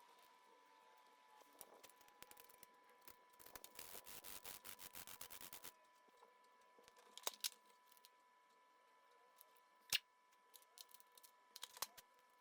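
Faint handling clicks from small objects, with a quick run of rapid ticking about four seconds in and a few sharp single clicks later, the loudest near the end. A faint steady high tone sits underneath.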